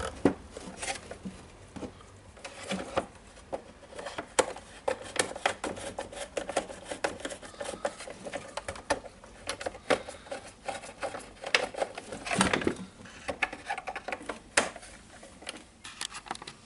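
Irregular clicks and knocks of the plastic parts of a DeWalt DC011 site radio being handled and fitted together during reassembly, with a few sharper taps scattered throughout.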